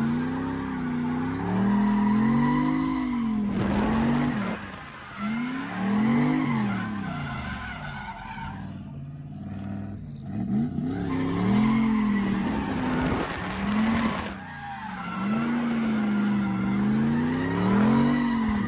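Drift car engine revving up and down again and again as it slides, with tyre squeal and skid noise.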